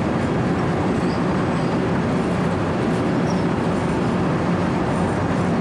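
Compact Wirtgen cold milling machine running steadily, its diesel engine and rotating cutter drum grinding up the road surface in a continuous dense rumble.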